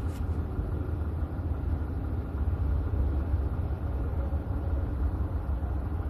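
A steady low background rumble with no distinct knocks or clicks.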